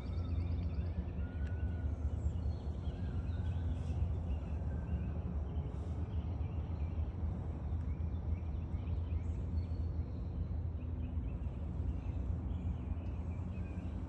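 Birds chirping, many short calls scattered throughout, over a steady low rumble.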